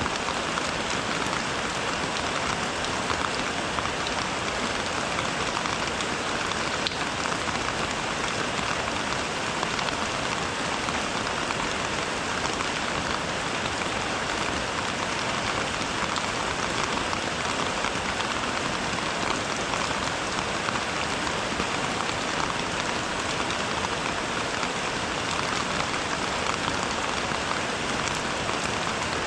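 Steady rain falling, an even hiss that holds without let-up, with faint ticks of single drops in it.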